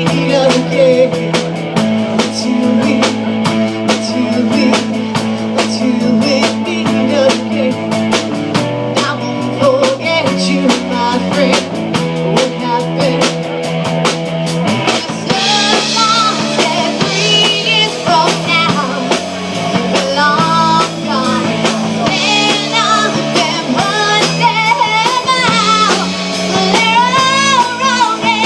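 Rock band playing live: drum kit, bass and guitar. About halfway through, a wavering, bending lead line comes in on top.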